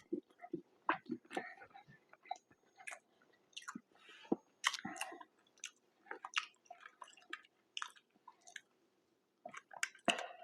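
Close-miked mouth sounds of a person chewing and smacking on fast food, a string of short irregular wet clicks and smacks.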